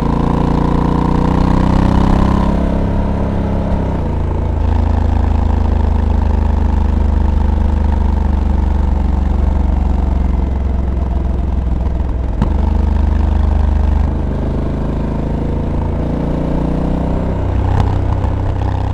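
Honda Africa Twin's parallel-twin engine running under way, with wind and road noise. The revs rise over the first couple of seconds, then drop in two steps about 2.5 and 4 seconds in. The engine then pulls at fairly steady revs with a few shifts in pitch, and picks up again near the end.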